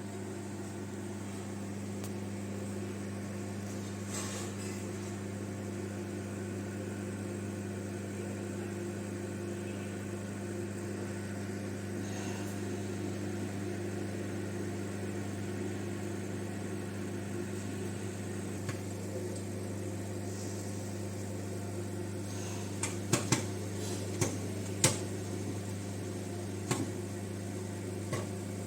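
Microwave oven running with a steady low electrical hum while it heats a bag of microwave popcorn. A few sharp clicks sound near the end.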